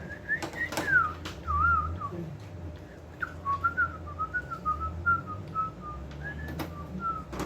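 A person whistling a wandering tune, with a few sharp clicks from handling.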